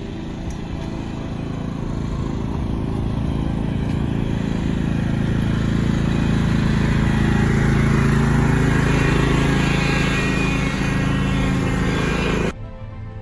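An engine running steadily, growing louder over the first several seconds, then cutting off suddenly near the end.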